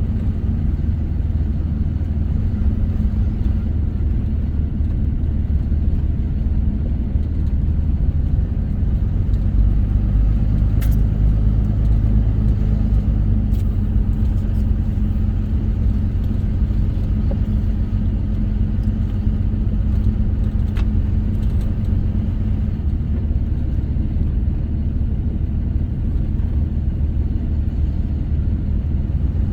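Vehicle driving on a dirt road: steady low engine and tyre rumble, with a few faint ticks.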